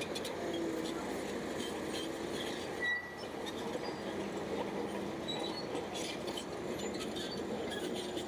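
Bulldozer working: its engine running steadily, with light clinks and rattles throughout.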